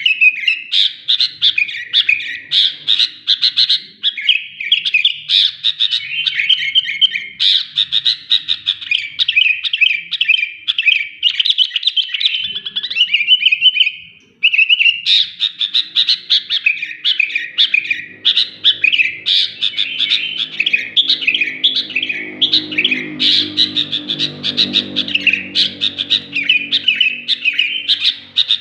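Sooty-headed bulbul singing loudly and almost without pause, in rapid strings of chirping notes, with a brief break about halfway through.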